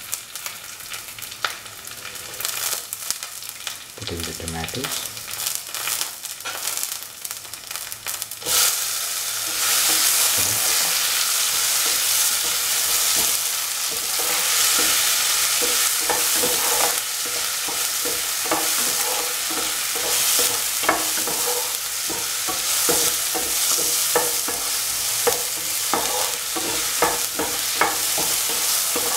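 Shallots and garlic sizzling in hot oil in a pan as they are sautéed, with frequent light clicks and scrapes from stirring against the pan. The sizzle gets clearly louder about eight seconds in and stays up.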